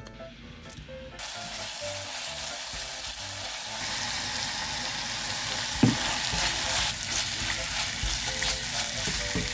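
Chopped onion and green onion frying in hot oil in an enameled cast-iron pot. The sizzle starts about a second in as the vegetables hit the oil and grows louder as chili powder is stirred in to make chili oil. A spatula scrapes the pot, with one sharp knock about six seconds in.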